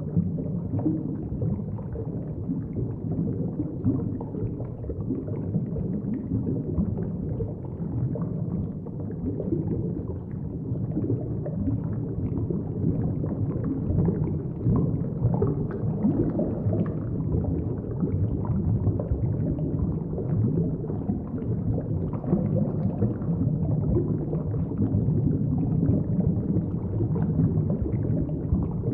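Underwater ambience heard through a submerged camera's microphone: a constant muffled low rumble of moving water with scattered faint crackles.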